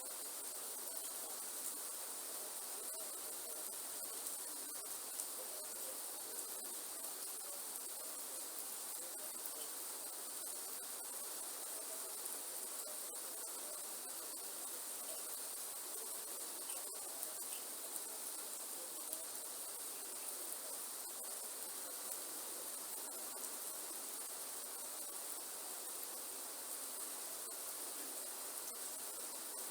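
Steady rain falling in a rainforest, with scattered drop ticks, under a constant high-pitched insect drone.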